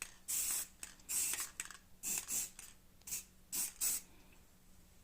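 Aerosol spray-paint can giving short hissing sprays of red paint in about four quick groups, stopping about four seconds in.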